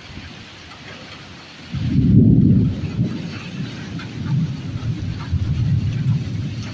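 Thunder during a rainstorm: a loud low rumble breaks in suddenly about two seconds in, then rolls on, swelling and fading, over the steady hiss of rain.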